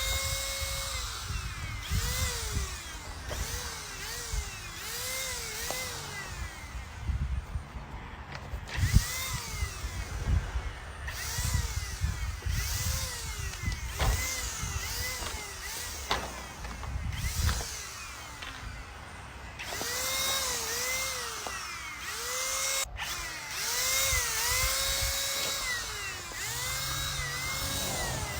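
Cordless handheld paint sprayer running while spraying wood stain. Its motor whine keeps swooping up and down in pitch, over and over, with low knocks underneath.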